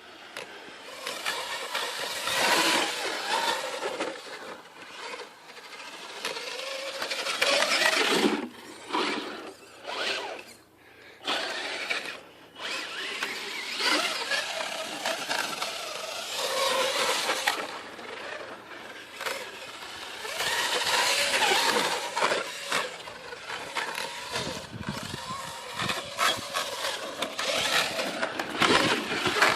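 RC truck's motor and drivetrain whining in repeated bursts, the pitch rising and falling with the throttle as it is driven hard on sand, with brief let-offs between runs.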